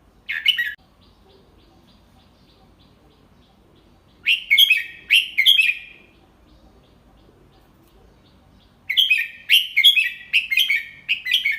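Red-whiskered bulbul singing: a brief call at the start, then two phrases of quick, clear warbled notes, the second longer than the first.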